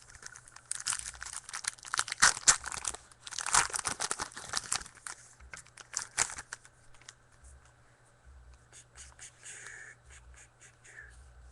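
Foil trading-card pack wrapper being torn and crinkled, in two rustling bursts during the first half, followed by lighter scattered rustles and clicks of cards being handled.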